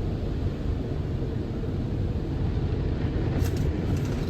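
Steady low rumble of a tunnel car wash's equipment heard from inside the car's cabin, with a brief crackle about three seconds in.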